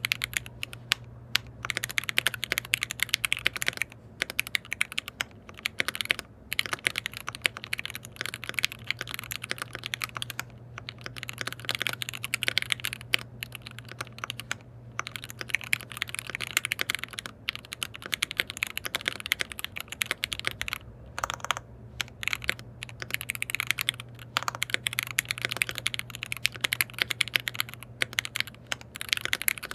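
Custom KBD67 Lite R3 mechanical keyboard with lubed linear switches being typed on in fast runs of keystrokes broken by short pauses, over a steady low hum.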